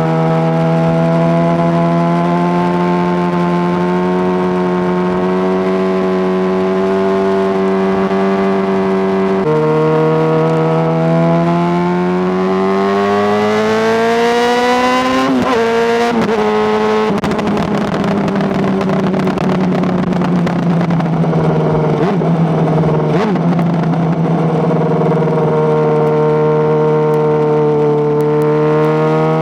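Honda CBR600RR inline-four motorcycle engine under way, on-board. It holds a steady cruising note, then the revs dip about ten seconds in and climb steadily to a peak about halfway. After that the note falls away rougher and lower with scattered crackles while decelerating, and settles back to a steady cruise near the end.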